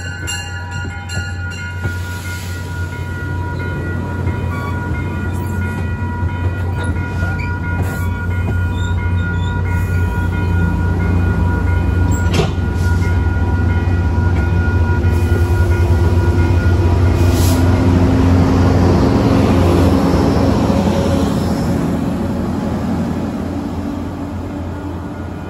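Metro-North diesel push-pull passenger train rolling past and pulling away, cab car leading and the diesel locomotive pushing at the rear. A steady low diesel drone and rolling-wheel noise swell as the locomotive nears and passes, loudest about two-thirds through, then fade, with a single sharp clank near the middle.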